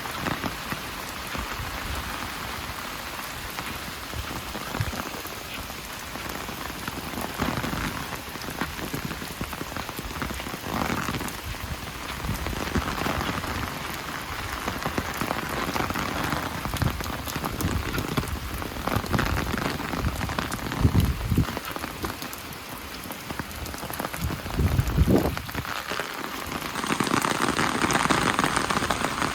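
Steady rain falling, a dense patter of drops on surfaces. A few louder low thumps come about two-thirds of the way through, and the rain grows louder near the end.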